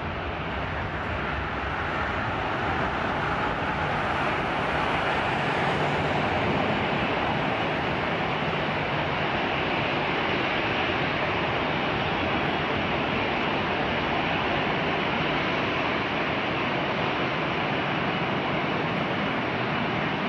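Jet airliner engine noise: a steady, loud rushing that swells a little over the first few seconds and then holds.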